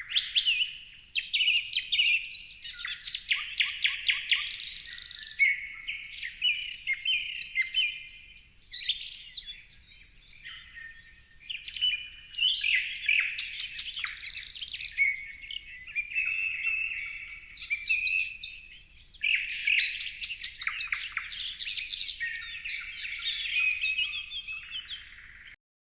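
Several songbirds chirping and singing at once, a dense mix of quick tweets, trills and sharp clicking notes. The sound cuts off abruptly near the end.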